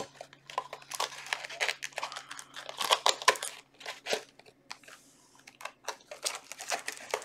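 Foil trading-card booster pack wrappers crinkling and rustling in the hands in irregular bursts of crackle, with a lull about five seconds in.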